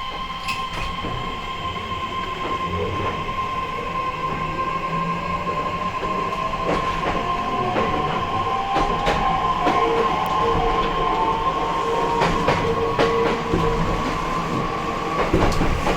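Inside an E131-1000 series electric train's motor car under way: the inverter and traction motor whine rises in pitch as the train speeds up, over a steady electrical hum and rumble. Wheels click sharply over rail joints.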